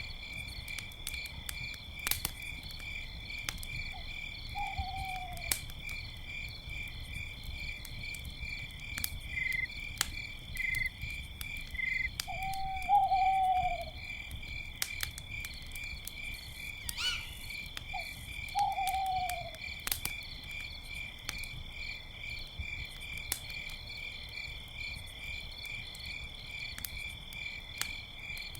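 Campfire crackling with sharp pops over a steady, pulsing chorus of crickets. An owl hoots three times, each hoot sliding down in pitch, with a few short high chirps in between.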